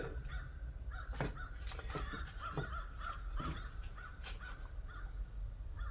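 Crows cawing repeatedly in the background, with a few sharp clicks of something being handled.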